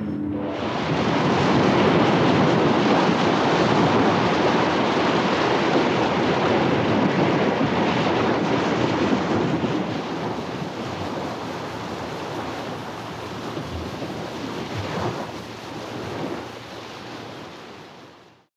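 Sea surf washing steadily, slowly fading over the last several seconds before cutting off.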